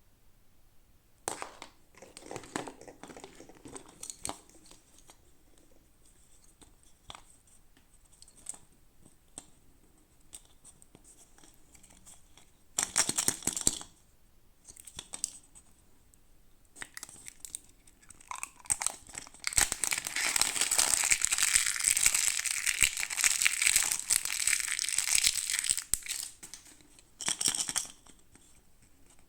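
Toy packaging being torn open and crinkled by hand: short rustles and a brief rip, then a long stretch of loud tearing and crumpling about two-thirds of the way through, and one more short rip near the end.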